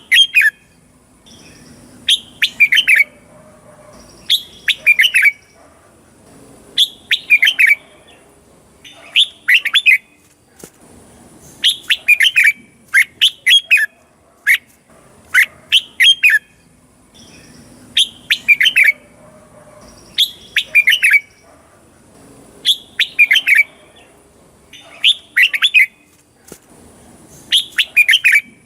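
Red-whiskered bulbul singing: short phrases of several quick, warbling notes, repeated about every two seconds with brief pauses between.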